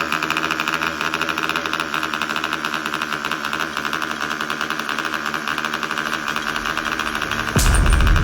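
Small 3.2 cc model aircraft engine running steadily at high speed with a fast, even buzz. About seven and a half seconds in, a loud low rumble cuts in suddenly.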